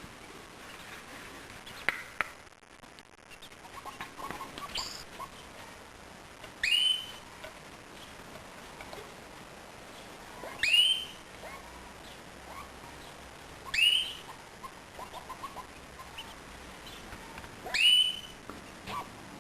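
A bird giving a loud, short call that rises quickly in pitch, repeated four times at intervals of three to four seconds, with softer scattered chirps and chatter between the calls.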